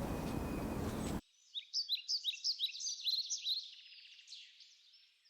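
A small bird singing a rapid series of short, high chirps that fade out after about two and a half seconds. Before it, about a second of steady outdoor background noise cuts off abruptly.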